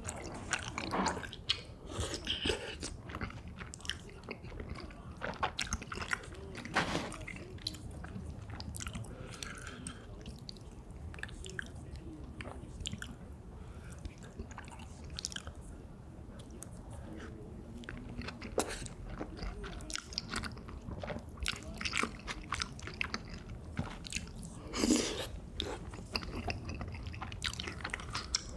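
Close-miked chewing and biting of cream tteokbokki, with many short sharp mouth sounds coming irregularly throughout.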